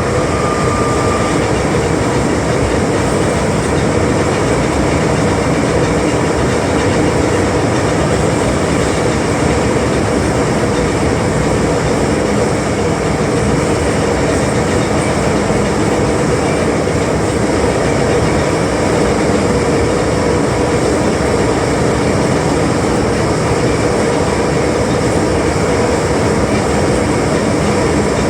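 Running noise heard inside the passenger car of an MTR M-Train running at steady speed: a continuous rumble of wheels on rail with a steady hum. A faint high tone stops about a second in.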